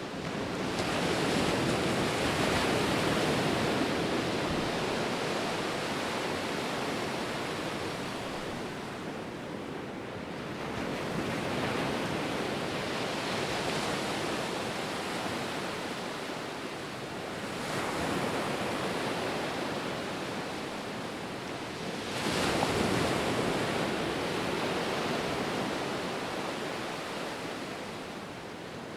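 Ocean surf: a continuous wash of breaking waves that swells as each new wave comes in, with fresh surges about a second in, around halfway, and twice in the last third.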